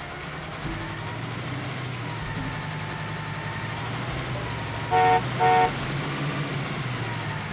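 A motor vehicle's engine running steadily, with two short horn honks in quick succession about five seconds in.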